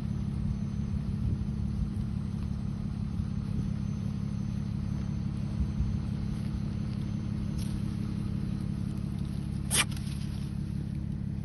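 Car engine idling steadily with a low hum, and one short crackle near the end.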